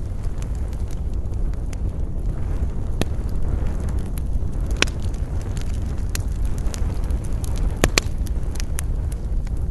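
Wood campfire crackling, with scattered sharp pops, a few louder ones about three, five and eight seconds in, over a steady low rumble of wind.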